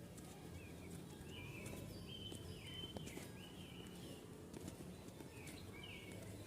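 Light rain falling, with a bird calling in short, downward-sliding chirps: a run of them in the first half and a couple more near the end. A faint low steady hum lies underneath.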